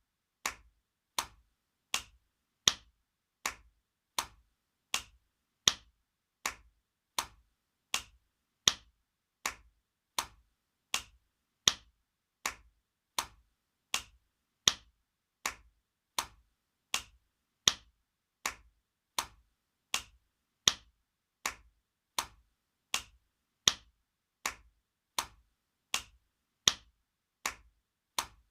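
Spanking sound effect: a hand slapping skin over and over, in a steady rhythm of about one sharp slap every three-quarters of a second, some slaps louder than others.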